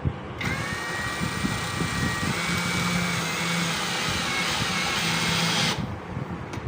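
Brushless cordless drill running for about five seconds, a steady high whine that starts and stops abruptly, its pitch shifting slightly partway through.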